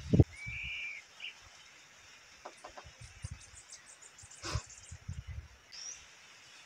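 Birds calling: a clear whistled note about half a second in, a scatter of short high chirps, and a rising note near the end. A few dull low knocks and one sharp click about four and a half seconds in are heard with them.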